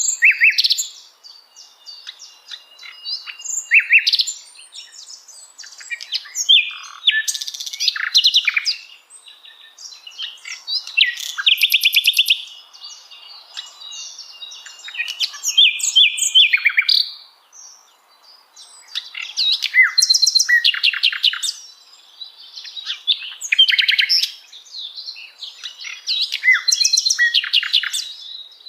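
Sikatan londo flycatcher singing: bright, high chirps and fast rattling trills in repeated bursts of a few seconds each, with short gaps between them.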